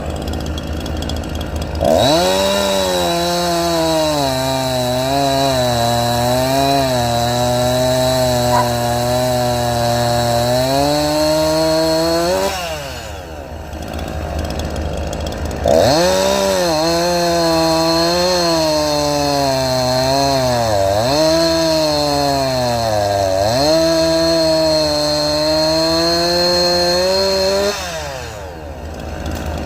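Small engine revving up sharply twice and held at high speed for about ten seconds each time, its pitch dipping and wobbling as if under load, then dropping back to a low idle between runs.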